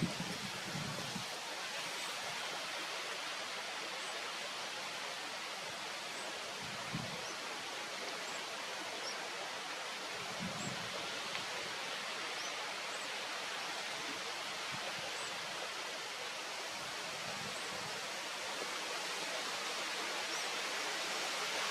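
Steady rushing outdoor background noise, with faint, short high chirps every second or two and a few soft low thumps, the first right at the start.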